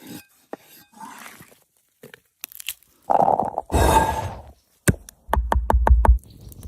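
Food-preparation handling sounds: a crunching scrape, then a run of quick knocks, about five a second.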